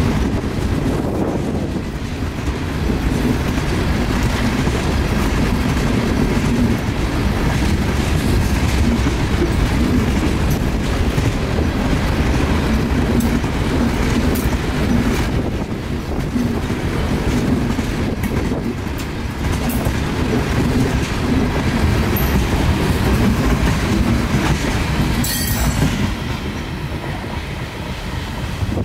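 Freight train of refrigerated boxcars rolling past close by: steady rumble and clatter of steel wheels on the rails, easing off near the end as the last car passes.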